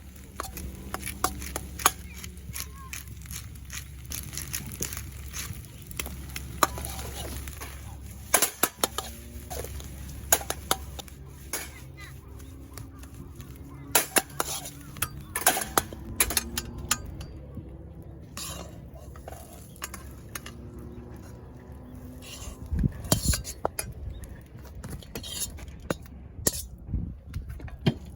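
Metal utensils clinking and scraping against a pan or dish in irregular sharp knocks, over a steady low hum.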